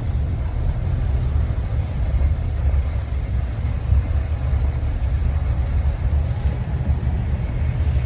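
Car driving on a rain-soaked freeway, heard from inside the cabin: a steady low rumble of engine and tyres with an even hiss of water spray.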